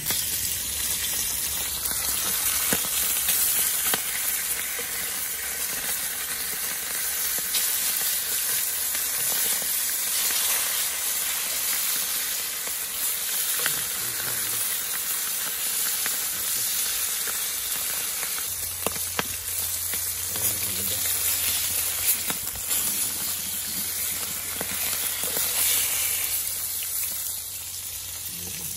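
Salmon pieces frying in hot oil in a frying pan, a steady loud sizzle with a few sharp clicks and pops scattered through it.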